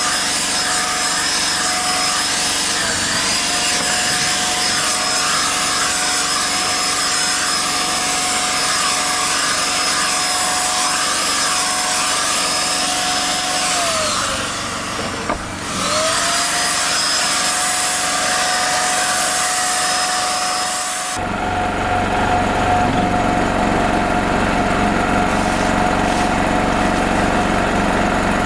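A small motor running steadily at a high, even pitch, slowing down and speeding back up about halfway through. About three-quarters of the way in its sound changes abruptly, with less hiss and more low rumble.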